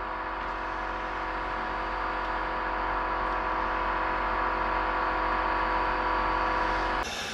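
Air escaping from a motorcycle's rear tire through its valve as the tire is deflated: a steady hiss with a whistling tone in it, cutting off suddenly near the end.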